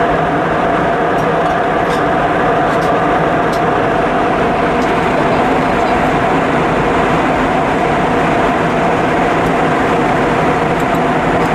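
Steady cabin noise inside an Airbus A320-232 in flight: the drone of airflow and its IAE V2500 engines, with a steady hum tone running through it.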